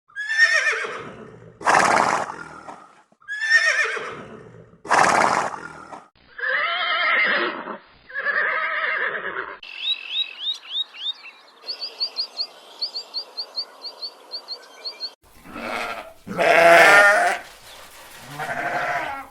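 A run of different animal calls, one after another: four loud pitched calls in two pairs, then two shorter calls, then several seconds of fast, high repeated chirping, then more loud calls near the end.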